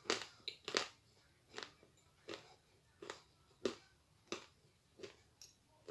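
Mouth-close crunching as a hard, crumbly white lump is bitten and chewed, about one crunch every two-thirds of a second, growing softer.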